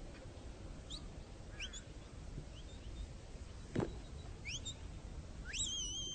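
Birds chirping: a series of short, quick rising calls, ending in a longer rising whistle that wavers near the end. A single knock sounds about four seconds in.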